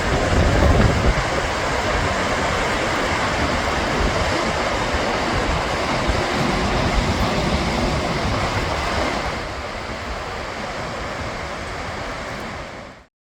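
Steady roar of Gullfoss waterfall, its rushing water a dense even noise. It drops slightly about nine and a half seconds in, then cuts off abruptly just before the end.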